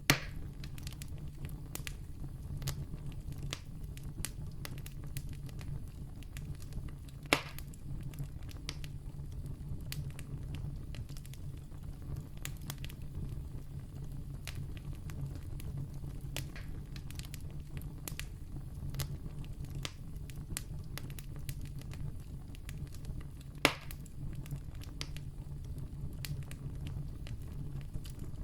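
Campfire burning: a steady low rumble of the flames with scattered crackles and three louder pops of burning wood.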